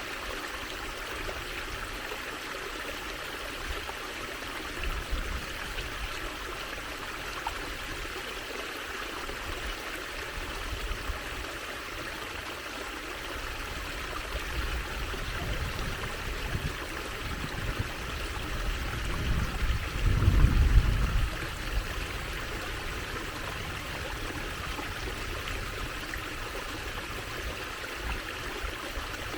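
Water trickling steadily in a stream. There is a low rumble about two-thirds of the way through.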